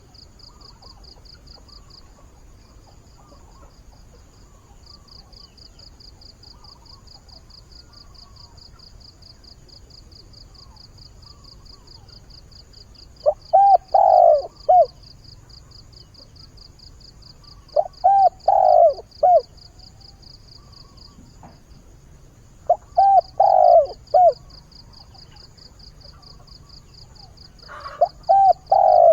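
Decoy spotted dove cooing its call to lure and find a mate: four phrases of a few low coos each, about five seconds apart, beginning about halfway through.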